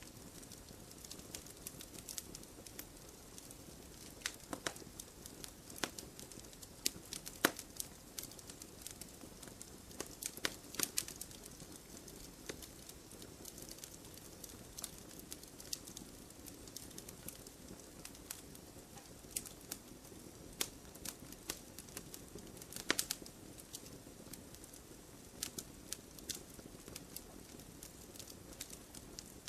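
Wood fire in a fireplace crackling, with irregular sharp pops and snaps over a soft, steady hiss of flame. The pops come in thicker, louder clusters a few times.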